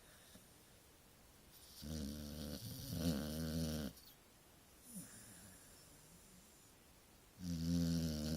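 Staffordshire terrier snoring while asleep: deep, rattling snores with a quiet stretch between them. A long double snore comes about two to four seconds in, a faint short one about five seconds in, and another starts near the end.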